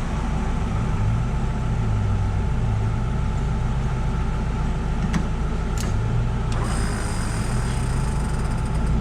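Off-road 4x4's engine running at low revs, a steady low hum that wavers slightly in pitch, with two sharp clicks about five and six seconds in.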